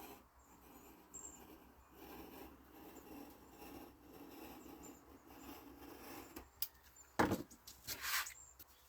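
A blade drawn through heavy watercolor paper on a cutting mat, a steady scratchy scraping for several seconds, then two louder, sharper paper rustles or knocks near the end as the cut piece is handled.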